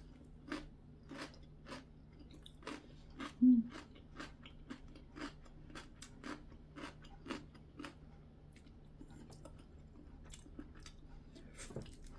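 Close-up chewing of food, with moist crunching at about two chews a second that grows fainter after about eight seconds. There is one brief louder low sound about three and a half seconds in.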